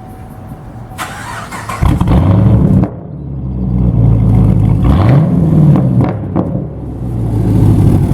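Car engine with a home-built 'Frankenstein' exhaust starting: a brief crank about a second in, catching loudly just before two seconds, then running through the exhaust with one short rev that rises and falls.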